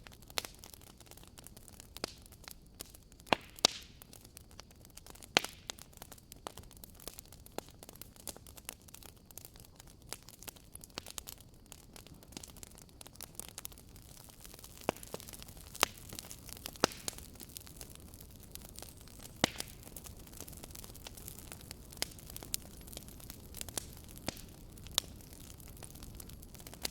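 Wood campfire crackling: irregular sharp pops and snaps of various loudness over a soft steady hiss of burning.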